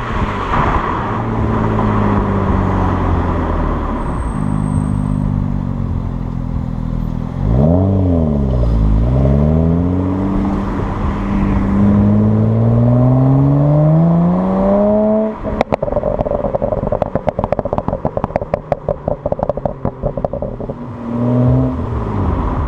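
BMW 335i twin-turbo straight-six on an MHD Stage 1 burble map: the engine revs dip and climb again, then it pulls steadily up through the revs under acceleration. On lifting off, the exhaust pops and crackles rapidly on the overrun for several seconds, followed by a short rev near the end.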